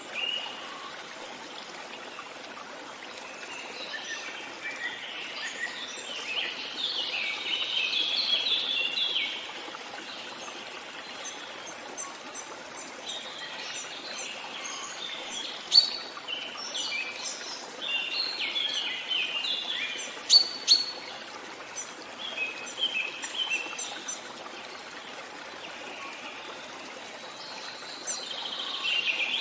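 Songbirds chirping and singing in bouts of quick notes, two of them sharp and loud, over the steady rush of flowing stream water.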